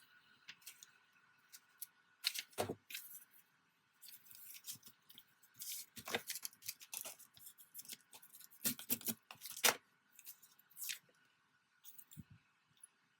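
Scissors snipping through paper, with paper being handled and rustled in between: irregular crisp clicks and rustles, busiest in the middle of the stretch and a few seconds from the end.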